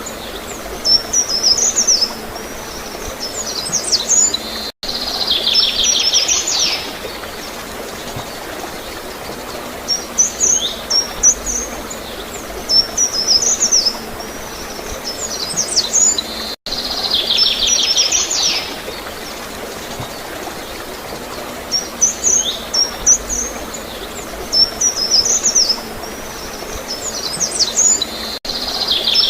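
Songbirds chirping in short high phrases, each group ending in a buzzy trill, over a steady background of gurgling flowing water. The same bird passage comes round about every twelve seconds, and the sound cuts out for an instant about five seconds in and again near seventeen seconds.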